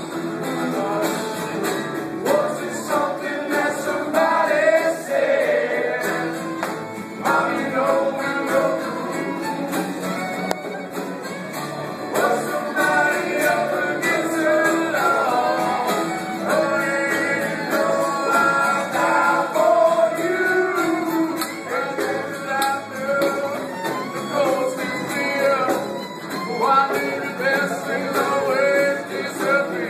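Live acoustic band music: a street band playing a tune as it marches.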